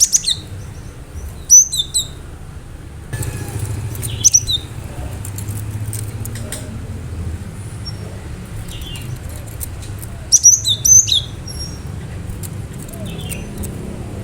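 Cinereous tit (gelatik batu) calling in short bursts of sharp, high whistled notes that glide quickly, about four bursts spread through the stretch, over a steady low rumble.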